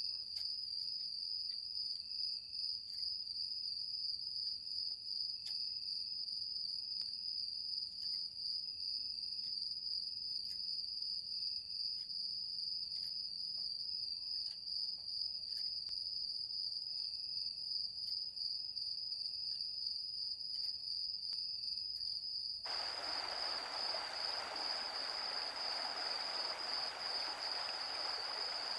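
A steady, high-pitched chorus of insects such as crickets, with a slight pulse. Near the end a steady rushing hiss joins it.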